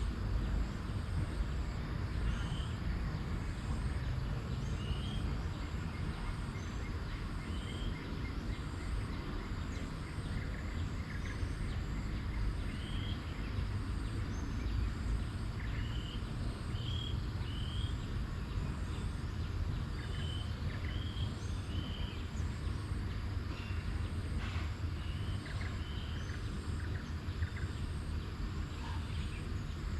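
Outdoor ambience: a bird gives short rising chirps again and again over a regularly pulsing high insect drone, with a steady low rumble underneath.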